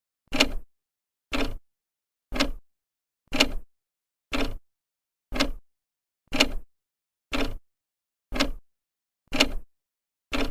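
Old clock ticking once a second, as its second hand steps: a sharp, even click each second with silence between.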